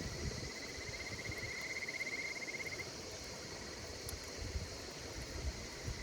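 Insects calling: a rapidly pulsed trill that swells and stops just under three seconds in, over a steady high-pitched insect chorus. Underneath runs a low, flickering crackle of the bonfire, with a couple of louder pops.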